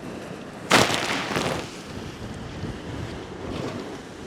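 Storm waves breaking against a sea wall: one sudden loud crash of surf and spray less than a second in, dying away over about a second. Steady wind buffets the microphone throughout.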